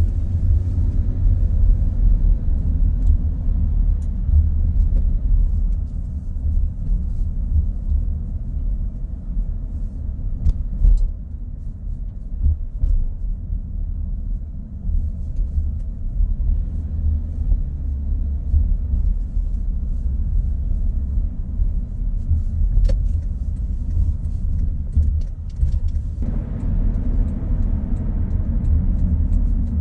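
Car driving on the road: a steady low rumble of engine and tyre noise, which grows fuller in the mid range about 26 seconds in.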